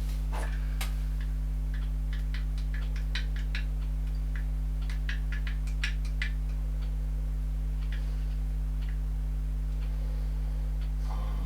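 A steady low electrical hum with a series of light, irregular clicks and taps, most of them in the first seven seconds and fewer after that.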